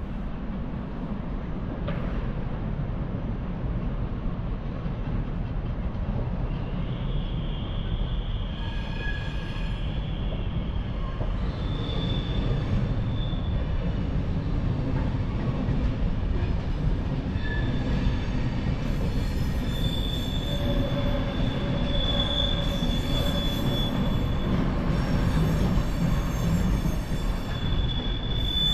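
Train rumbling into the station on curved track, growing slowly louder, with high-pitched wheel squeals coming and going from about seven seconds in and getting stronger in the second half.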